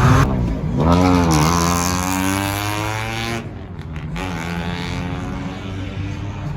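A car engine revving hard, then its pitch falling steadily for about two seconds as it eases off or pulls away. About halfway through the sound drops abruptly to a quieter, lower engine tone.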